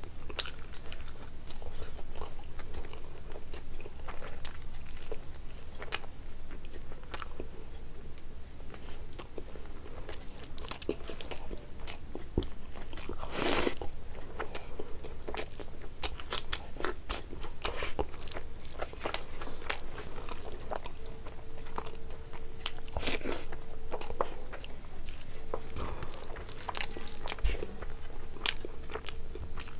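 Close-miked chewing and crunching of mouthfuls of rice and curry eaten by hand, full of quick wet mouth clicks and smacks, with a louder crunch about 13 seconds in and another about 23 seconds in.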